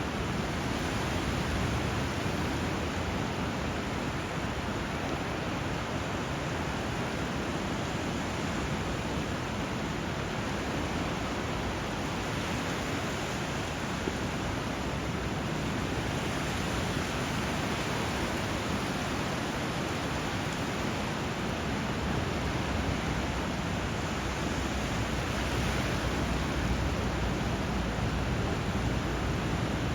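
Steady rush of flowing water and surf, an even hiss with a low rumble underneath that grows a little louder near the end.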